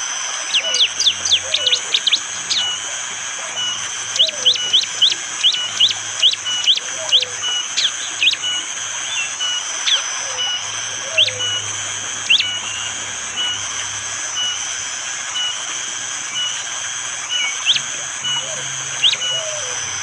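Prenjak jali (prinia) giving its hard, sharp call: quick runs of short upward-flicking notes, several a second, that thin out to single notes after about eight seconds. A short repeated note and a steady high forest background run underneath.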